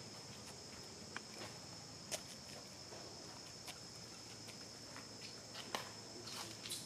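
Steady high-pitched drone of insects, with a few scattered sharp clicks and light rustles, the loudest about two seconds in and just before six seconds.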